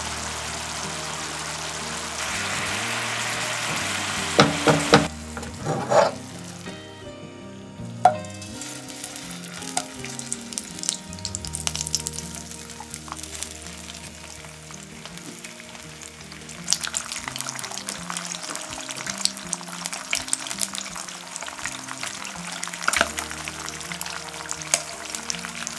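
Sliced onions simmering in a soy sauce and sugar glaze in a frying pan, bubbling with a steady hiss, with a few sharp knocks around five seconds in. Then slices of Spam frying in a nonstick pan, sizzling and crackling, growing busier about sixteen seconds in. Light background music underneath.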